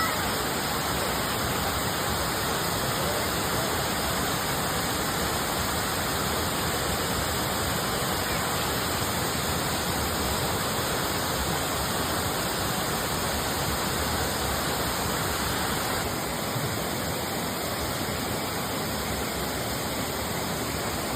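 Steady rush of a waterfall, an even, unbroken noise that eases slightly about sixteen seconds in.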